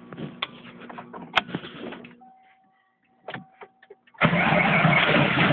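Twin-turbo 5.8 L Windsor V8 of a 1990 Mustang GT, heard from inside the car. Scattered clicks over a faint low hum give way, about four seconds in, to a loud, even burst of engine noise lasting about two seconds, a rev.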